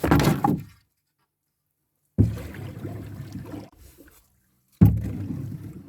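Water splashing and trickling against a canoe in two short stretches, each starting abruptly and fading over about a second, after the tail of a spoken line and a moment of dead silence.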